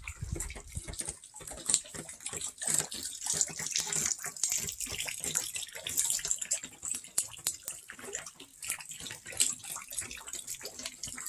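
Rain falling, with a steady hiss and many irregular drops pattering and splashing.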